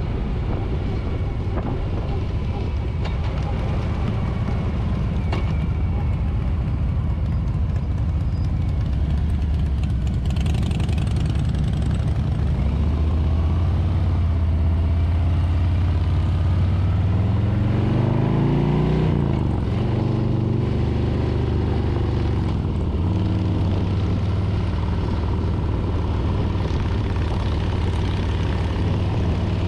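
Harley-Davidson Street Bob's Milwaukee-Eight 114 V-twin running steadily under way, heard from the handlebars. Around two-thirds of the way through the engine note climbs and then drops back, before settling to a steady hum again.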